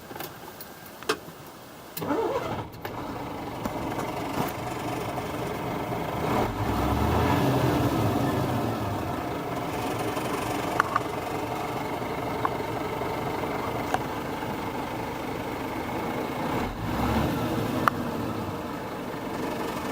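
Scania 124-400 truck's diesel engine cranked and started about two seconds in, after a sharp click, then idling. The engine speed rises briefly twice, a longer rise in the middle and a shorter one near the end.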